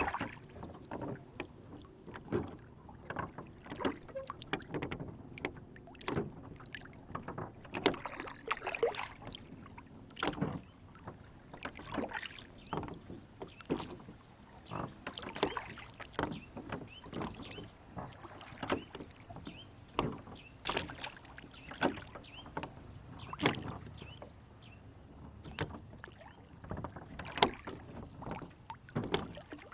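Water lapping and slapping against the hull of a small rowboat on a lake: a steady run of short, irregular splashes and knocks, one to three a second.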